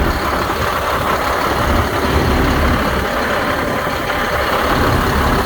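Caterpillar C7 inline-six diesel in a Sterling fuel lube truck idling steadily.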